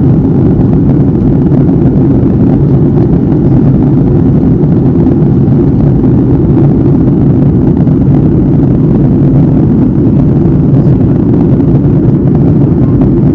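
Jet airliner cabin noise in flight, heard from a window seat: a steady, loud low rush of engines and airflow with no change.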